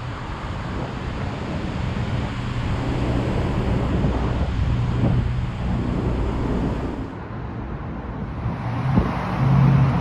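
Wind rushing over the microphone of a moving mountain bike rider, with a motor vehicle's low hum passing; the hiss eases a little after about seven seconds.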